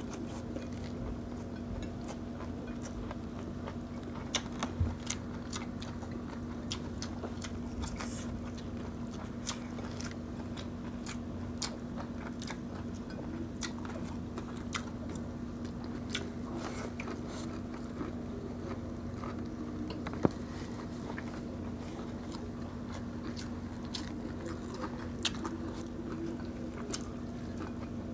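Close-miked mukbang eating: chewing, lip smacks and scattered sharp mouth clicks as two people eat grilled fish, sea grapes and vegetables by hand. A steady low hum runs underneath.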